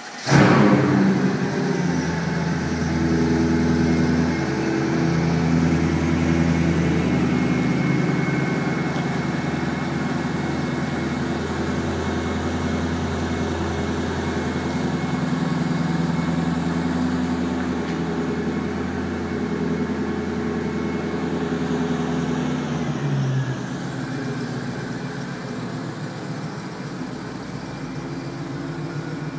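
Mercedes-Benz CL500 (C215) 5.0-litre V8 with a performance exhaust firing up with a loud flare, then idling steadily. A little over twenty seconds in, the idle drops and it runs quieter.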